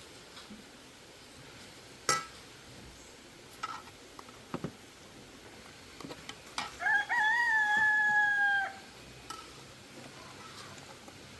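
A rooster crowing once, a single held call of about two seconds that starts with a short rise and tails off slightly. Several sharp knocks come before it.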